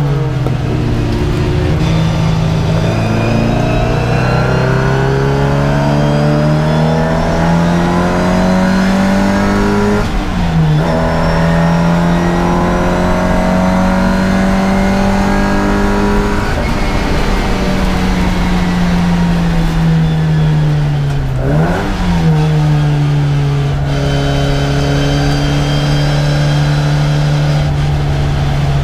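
Race car engine heard from inside the cockpit under load, revs climbing slowly, dipping sharply and recovering about ten seconds in, climbing again, then falling away as the car slows. A short rev blip comes a little past the twenty-second mark, after which the engine holds steady revs.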